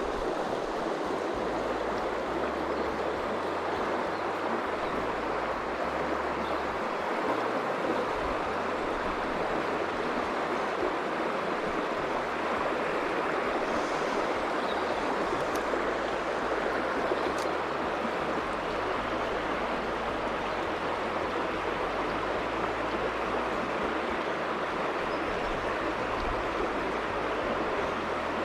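Steady rush of flowing river water, starting abruptly and holding even throughout.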